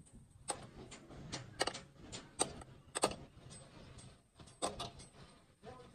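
Irregular sharp metallic clinks and clicks from metal parts and hand tools being handled and set down, about a dozen light strikes at uneven intervals.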